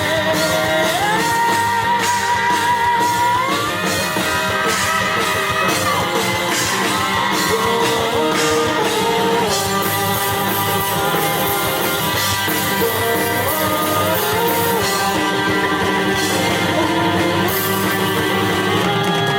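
Live rock band playing a passage with no lyrics: drum kit with steady cymbal hits, guitars and bass under a long, wavering lead line that bends up in pitch early on.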